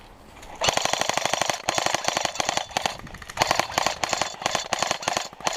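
Airsoft guns firing on full auto: rapid strings of sharp cracks that start suddenly about a second in and go on in bursts with short pauses.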